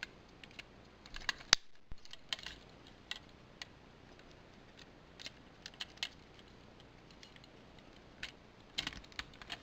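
Clicks and snaps of a hard-plastic Transformers figure (Robots in Disguise 2001 Midnight Express) being handled as its arms are folded up under its panels: scattered sharp clicks, busiest in the first couple of seconds and again near the end.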